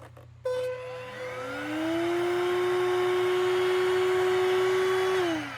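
Portable car vacuum cleaner switched on with a click about half a second in, its motor whine rising as it spins up, then running steadily. It is switched off near the end and winds down with falling pitch.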